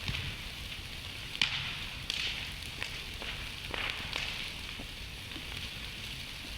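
Campfire burning: a steady hiss with irregular sharp crackles and pops from the wood, the loudest pop about a second and a half in.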